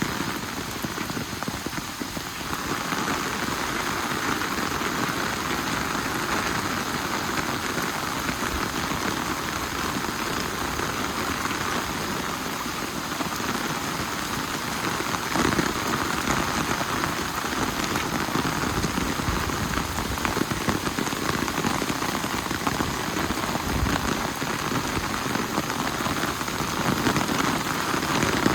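Steady rain falling and pattering on surfaces, a continuous even hiss.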